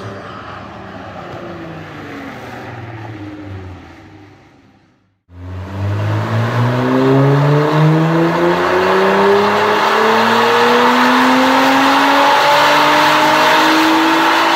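Nissan GT-R R35's twin-turbo V6 running through a Meisterschaft exhaust. Its note fades away over the first few seconds and stops; then it comes in loud and climbs steadily in pitch for about nine seconds in one long, hard acceleration.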